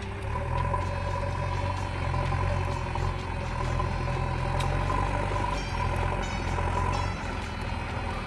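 Heavy diesel engine running under load. It picks up about half a second in and eases off near the end, with a steady high whine above it.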